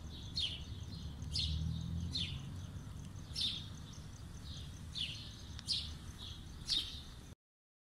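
Birds chirping: short, sharp, downward-sweeping chirps about once a second, over a faint low rumble. The sound cuts off suddenly near the end.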